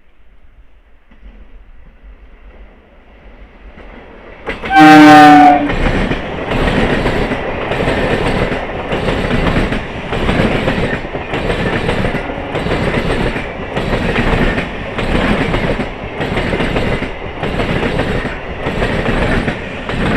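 Electric multiple unit local train approaching, then sounding its horn once for about a second, the loudest moment. It then passes close with a rhythmic clatter of wheels, a pulse roughly every second and a quarter as each coach goes by, which drops off sharply at the end.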